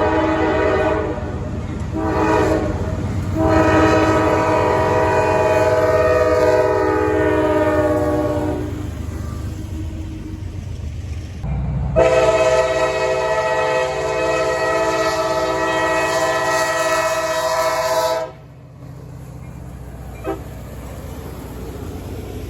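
Diesel locomotive horn on an Amtrak Auto Train, sounding a short blast, then two long blasts. The first long blast sags slightly in pitch. A low rumble of the engines and wheels runs beneath and carries on after the horn stops.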